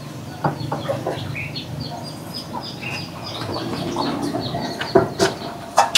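Birds chirping in a quick series of short, high chirps, with a few sharp clicks near the end.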